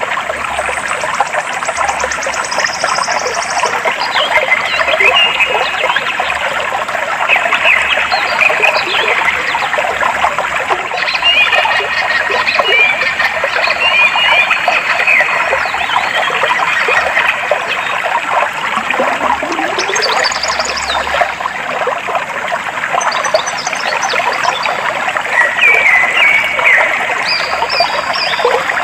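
Clear stream water flowing and trickling steadily, with birds chirping and whistling short phrases over it. A fast, high trill sounds in the first few seconds.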